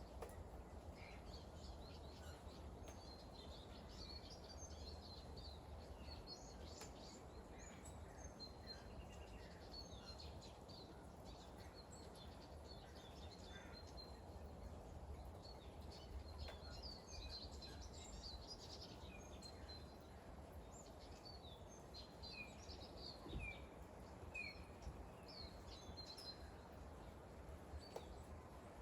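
Small birds chirping and twittering in many short, quick calls over a faint, steady low background hiss.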